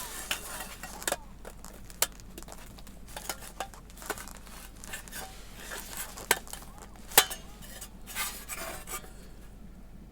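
Thin titanium plates of a folding fire pit clinking and clicking against each other as they are handled and slotted together, irregular light metallic clicks, the sharpest about seven seconds in.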